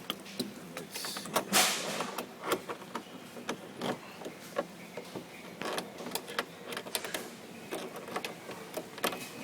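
Irregular metallic clicks and scrapes of pliers gripping and turning the height-adjustment nut in a refrigerator door hinge, with a louder scraping rush about one and a half seconds in.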